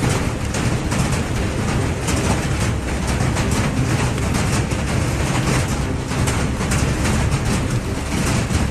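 Hail pounding down: a dense, continuous clatter of rapid impacts over a steady low rumble.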